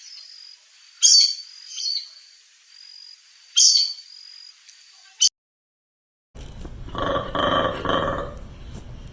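Birds chirping, with a high steady whistling tone between three loud chirps. The sound cuts out for about a second, then a large animal's low, pulsing call begins.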